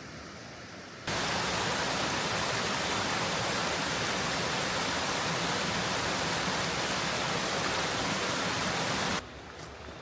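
Loud, steady rush of falling water, like a waterfall or torrent, that cuts in suddenly about a second in and cuts off abruptly near the end. Before and after it, a quieter outdoor hiss.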